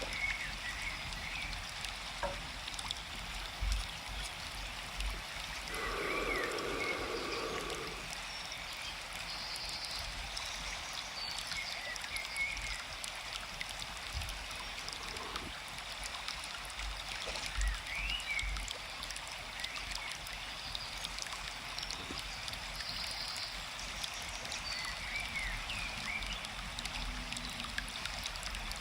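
Forest ambience: a steady rush of flowing stream water with small birds chirping now and then. A brief lower sound stands out from about six to eight seconds in.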